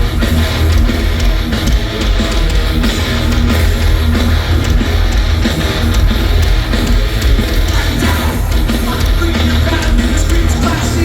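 Loud live rock music, heavy electric guitar over thick bass and a steady drum beat, with no vocals.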